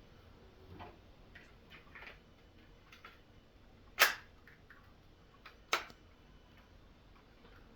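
A few light taps, then two sharp louder clicks about four and six seconds in, from HO-scale model locomotives being handled and swapped on the layout.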